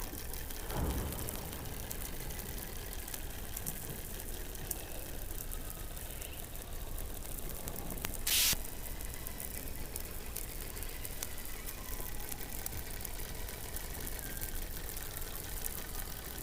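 Underwater hydrophone sound from beneath the Antarctic ice: a steady hiss flecked with faint crackles. There is a short low thump about a second in, and a loud burst of hissing noise lasting about half a second just past the middle.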